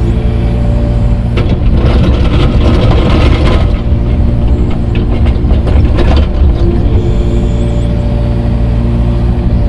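Heavy grading machine's engine running steadily under work, with clattering and scraping noise for a few seconds in the middle. The sound cuts off suddenly at the end.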